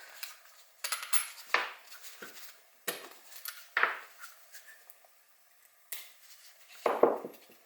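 Metal tools and small engine parts clinking and knocking against each other on a workbench, about six separate irregular clinks.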